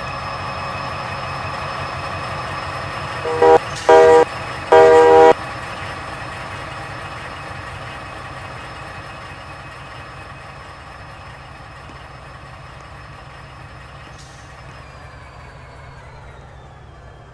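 Train running with a steady droning tone, its horn sounding three short chord blasts about three to five seconds in, the first very brief. The drone drops in pitch and fades over the last few seconds.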